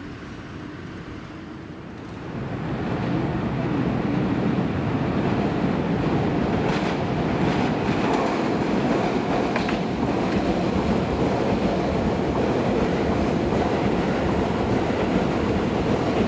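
Keisei Main Line electric train running at the station. Its rumble rises about two seconds in and then holds steady, with a few clicks of wheels over rail joints.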